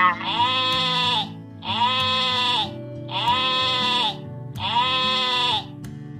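Sheep bleating four times, each bleat about a second long and evenly spaced, over background music.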